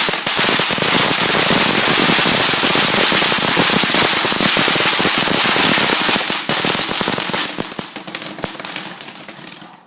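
Crackling firework going off: a loud, dense stream of rapid small pops for about six seconds, then thinning out and dying away near the end.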